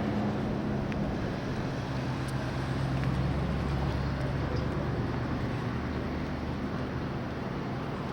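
Road traffic: a vehicle's engine hum rising to a peak about three to four seconds in and easing off, over steady outdoor traffic noise.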